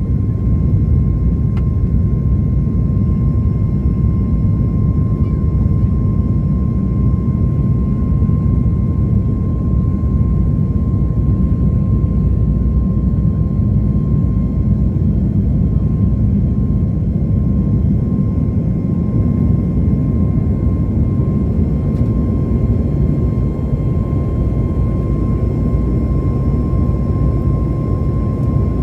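Cabin noise of a Boeing 737-8 MAX during takeoff: the steady, loud rumble of its CFM LEAP-1B turbofans and the airflow, with a constant high tone running through it.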